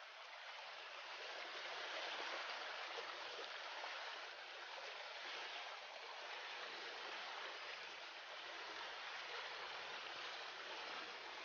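River water flowing, a steady rushing hiss that swells in over the first couple of seconds and then holds even.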